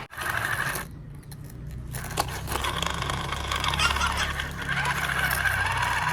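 Small electric motor and plastic gears of a radio-controlled toy vehicle whirring steadily, starting up after a short pause.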